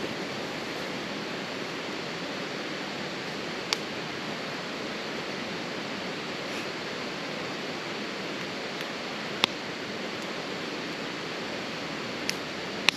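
Campfire burning, with a few sharp crackling pops of the wood, the loudest about two-thirds of the way in and two more near the end, over a steady rushing hiss.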